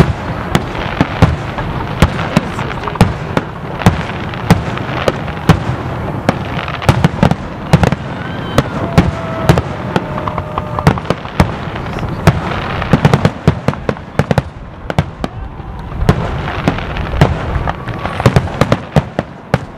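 Aerial firework shells bursting in quick succession: sharp bangs, several a second, that come thickest in dense clusters around the middle and again near the end.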